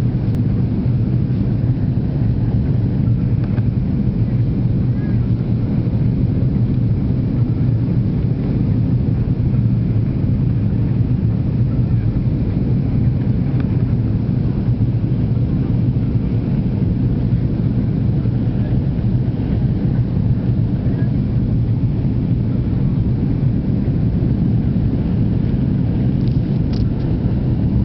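Steady low drone inside an airliner's passenger cabin: the engines and airflow heard through the fuselage as an even, unchanging rumble.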